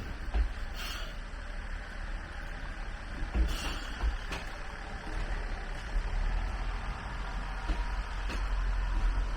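Train running past: a steady low rumble with a few sharp clicks.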